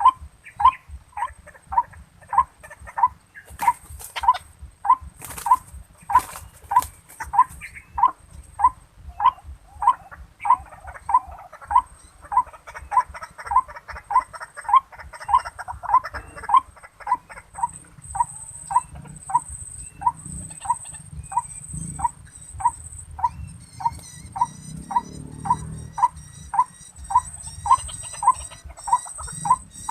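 White-breasted waterhen (ruak-ruak) calls: an unbroken, even series of short, loud 'kwak' notes, about two a second. Faint high chirping joins in near the end.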